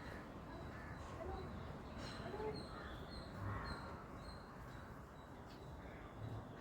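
Faint birds calling, with a few louder calls about two to three and a half seconds in over repeated short, high chirps.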